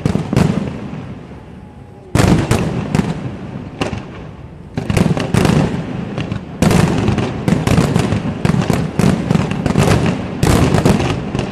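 Fireworks display: aerial shells bursting in volleys of bangs and crackles. After a short lull near the start, the volleys come again and grow denser, becoming near-continuous through the second half.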